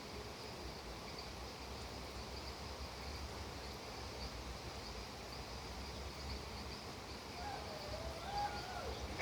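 Outdoor night ambience: a steady high insect chirring, like a cricket chorus, over an even background hiss. A short wavering call is heard near the end.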